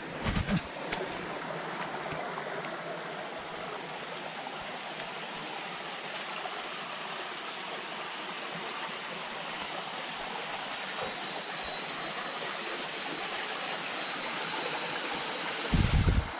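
Steady rush of flowing water over rocks, with a couple of low thumps just after the start and another near the end.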